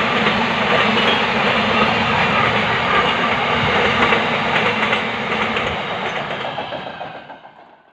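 Container freight train wagons rolling past on the track, a steady rail noise from the wheels and wagons that fades out over the last three seconds.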